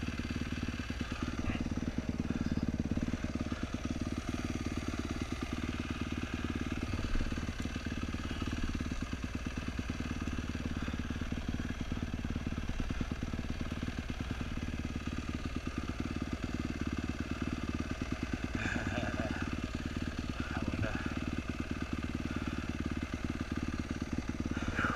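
Dirt bike engine running steadily at low revs, its separate firing pulses plain, with no hard revving.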